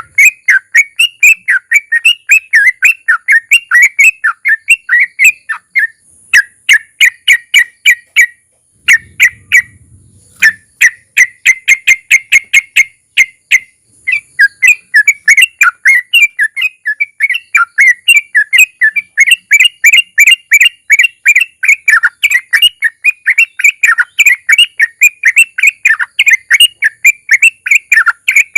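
Yellow-vented bulbul (trucukan) singing its long rapid-fire song, a fast string of short whistled chirps several per second, broken by a couple of brief pauses.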